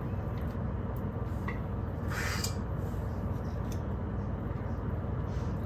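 Light kitchen handling sounds over a steady low hum: a few faint clicks and one brief scraping rustle about two seconds in.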